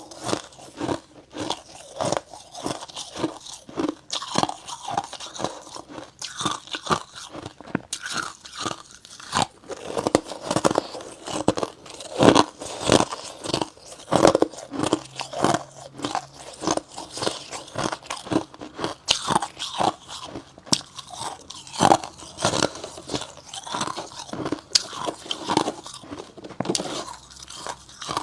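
Close-up crunching and chewing of slabs of freezer frost, with a steady run of irregular bites and crunches several times a second.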